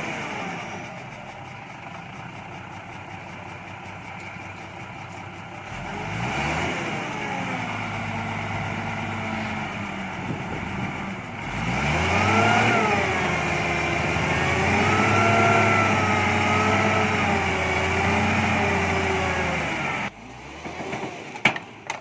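Hyundai 5-ton dump truck's diesel engine revving hard while the stuck truck tries to pull free. The engine swells in pitch about six seconds in, then rises again and holds high, wavering, until it cuts off suddenly near the end.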